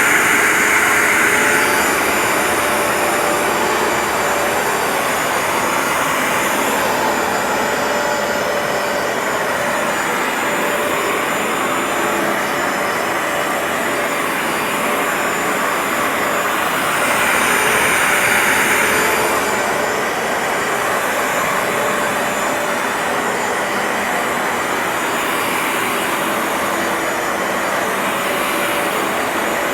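Bissell ProHeat 2X carpet washer running on a rug, its suction motor giving a steady loud whirring hiss. The sound swells and brightens briefly at the start and again about halfway through.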